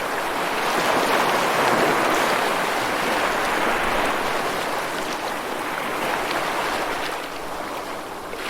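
Steady rushing water with no music over it, swelling a little and slowly easing off toward the end.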